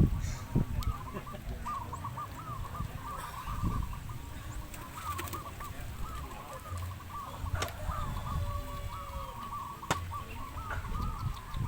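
Many zebra doves (perkutut) cooing together in overlapping, repeating phrases, as at a cooing contest. Wind rumbles on the microphone underneath, and there are a few sharp clicks in the second half.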